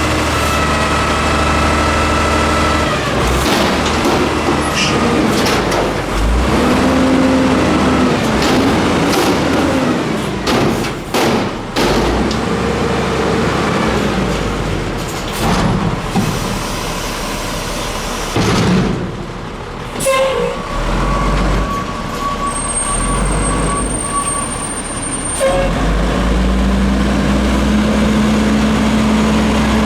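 Peterbilt 310 front-load garbage truck at work: its diesel engine runs and speeds up under hydraulic load, with several sharp metal bangs and clanks in the middle.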